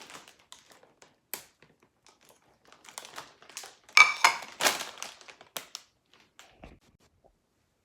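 Crinkly snack packaging being handled and scrunched, a run of irregular crackles with a loud burst of crinkling about four to five seconds in.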